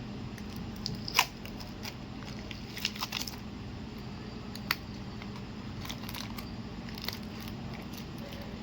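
Small clicks, taps and short scrapes of hand tools and plastic parts while a smartphone is taken apart, with a sharper click about a second in and others around three and five seconds in, over a steady low hum.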